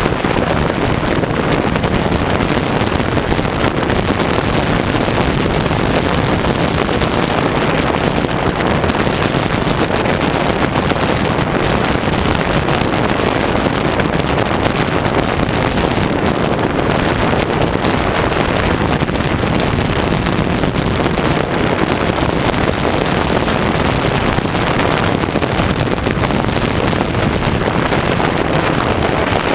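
Strong wind buffeting the microphone in a steady, dense rush, over the continuous whir of a DJI S1000 octocopter's eight motors and propellers in flight.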